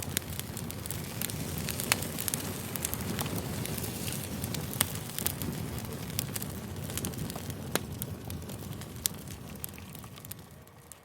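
Campfire crackling: a wood fire giving frequent sharp pops and snaps over a steady low rumble, fading down near the end.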